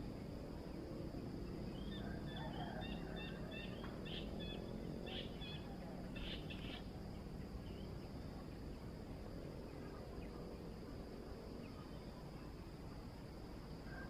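Faint chirping of small birds: quick runs of short, high notes from about two to seven seconds in, over steady outdoor background noise with a constant high hiss.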